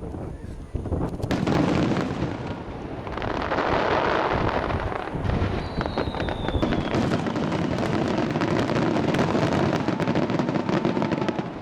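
Starmine fireworks barrage: rapid, overlapping bursts and crackling shells going off continuously, with a short falling whistle about six seconds in.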